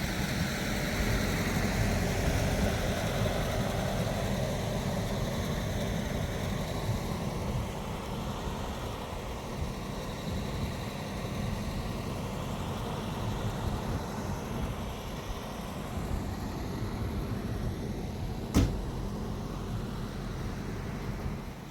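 A motor vehicle's engine running steadily with a low rumble, with one sharp click a few seconds before the end.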